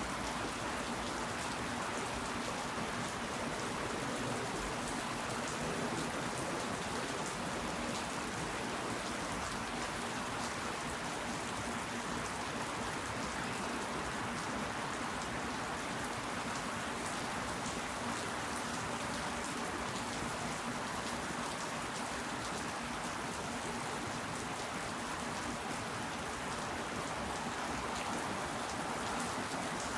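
Steady rain falling, with many single drops ticking on surfaces through an even hiss.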